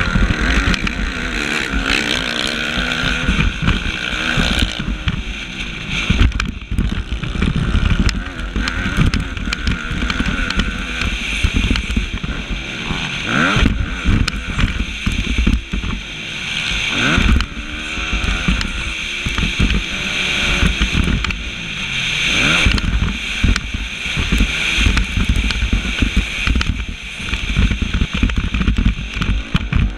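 Motocross bike engine at race pace, close to the microphone, revving up and down continually as the rider accelerates and backs off, with several sharp rising and falling sweeps in pitch. Wind buffets the microphone throughout.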